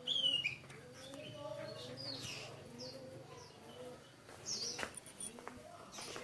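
Several birds calling together: short high chirps and swoops throughout, the loudest a falling chirp right at the start, over a run of low repeated calls. A sharp click a little before the fifth second.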